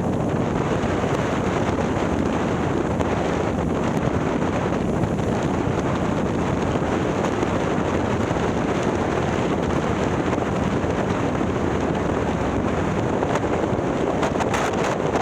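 Harley-Davidson touring bike's 130ci Milwaukee-Eight V-twin with a ThunderHeader exhaust running steadily under way, mixed with wind rushing over the onboard microphone.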